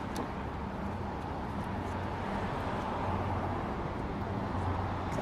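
Steady city street noise with a low engine hum from traffic.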